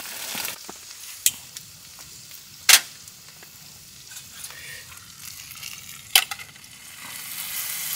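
Chicken sizzling as it cooks, a steady frying hiss that grows louder near the end, with three sharp clicks, the loudest about a third of the way in.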